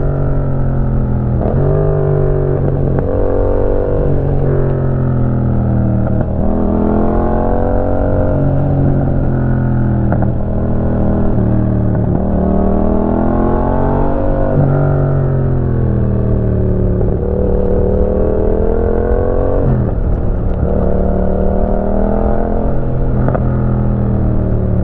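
Yamaha MT-07's 689 cc parallel-twin engine through a Roadsitalia titanium exhaust, ridden under load. The revs climb and fall over and over, with several sudden drops in pitch between the climbs.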